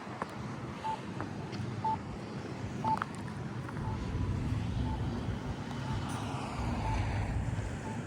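Short electronic beep repeating about once a second, over a vehicle engine rumble that grows louder about halfway through.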